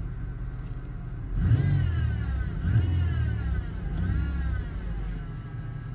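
A vehicle engine idling, then revved three times in quick succession, each rev climbing in pitch and dropping back, before it settles to idle again about five seconds in.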